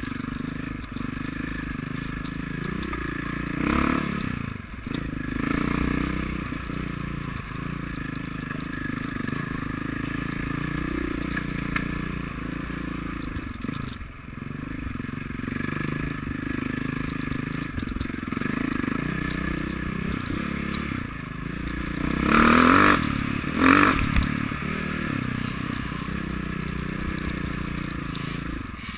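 Motocross motorcycle engines running and revving, their pitch rising and falling, with louder bursts of revving about two-thirds of the way through.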